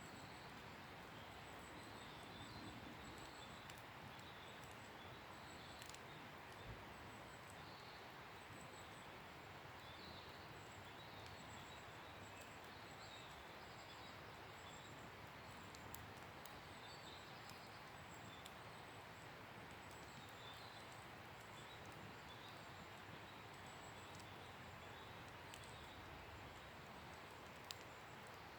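A faint wood fire with a few small, scattered crackles and pops over a steady hiss. A soft, high animal call repeats every second or two in the background.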